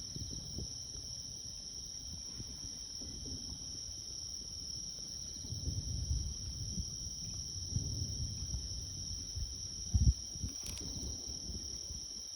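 Crickets chirring in a steady high chorus. Distant fireworks rumble low underneath, with one louder boom about ten seconds in.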